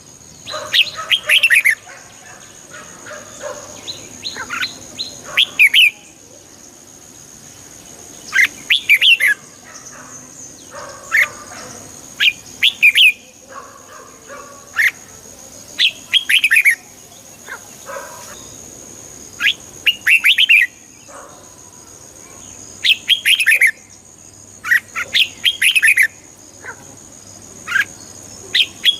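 Red-whiskered bulbul singing: short, bright phrases of quick rising and falling whistled notes, repeated every second or two. A faint steady high tone runs behind the song.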